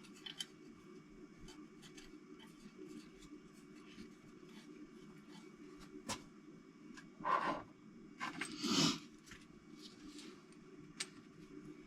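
Small engine parts being handled on a bench: scattered light metallic clicks and taps, with two short scraping noises a little past halfway, over a steady low hum.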